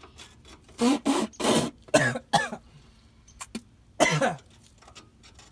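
A man coughing and clearing his throat: a run of short, harsh coughs about a second in, then one more near the end.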